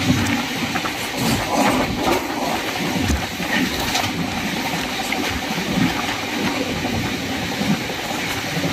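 Passenger train running along the track, heard from on board: a steady rushing noise of wheels and moving air, with a few light knocks.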